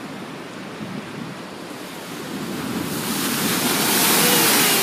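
Ocean surf breaking on the beach: a steady wash that swells from about two seconds in as a wave comes in and breaks, loudest near the end.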